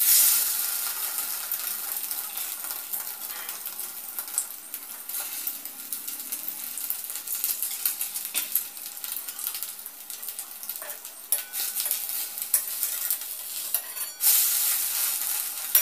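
Egg-dipped bread sizzling in a little hot oil in a kadai, the sizzle starting suddenly as the slice goes into the pan. Occasional clicks and scrapes of a metal spatula on the pan, and the sizzle flares up again near the end as the toast is turned.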